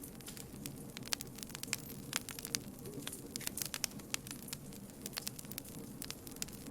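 Campfire crackling, with many irregular sharp pops and snaps over a steady low rumble of burning wood.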